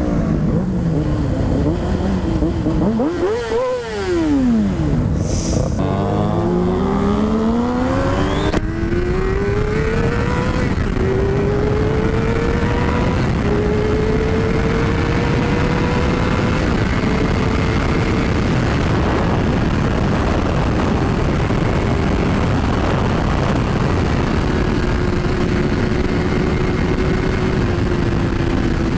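Honda CBR600RR inline-four engine revs up and back quickly, then accelerates hard through the gears. Its pitch climbs and drops back at each upshift, then settles to a steady cruise. Heavy wind rush over the microphone throughout.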